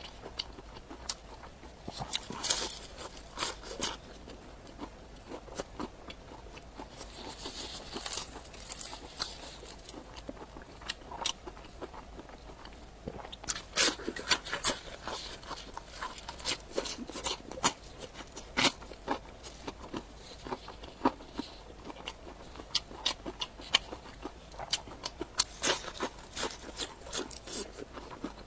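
Close-up chewing and crunching of cooked pig's head, with irregular wet crackles and clicks from the mouth.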